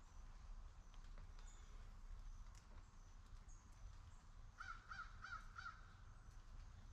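A bird calls four times in quick succession about halfway through, over a faint low outdoor rumble.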